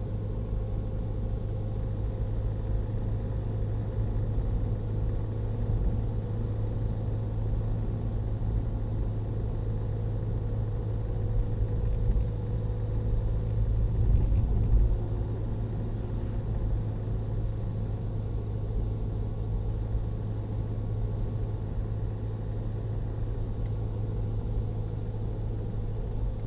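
Renault Mégane II running, a steady low rumble heard from inside the car, with a couple of brief louder swells around the middle. The recording is made to catch a strange noise from the dashboard, which does not stand out clearly above the rumble.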